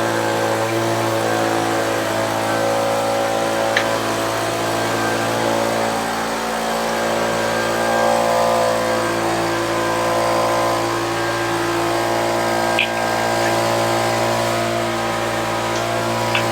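Gas-powered handheld leaf blower running steadily just after a cold start, with a few faint clicks over it.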